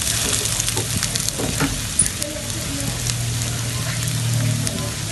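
Chicken tail pieces sizzling as they fry in oil in a nonstick wok. A wooden spatula stirs and scrapes them against the pan during the first couple of seconds.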